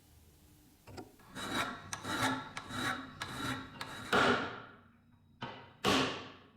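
Abrasive strokes worked by hand on a workpiece: about five quick rasping strokes, then three louder, longer ones that trail off.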